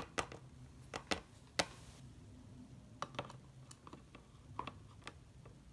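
Light, irregular clicks and taps of small plastic toy figurines being handled and set down on a hard surface.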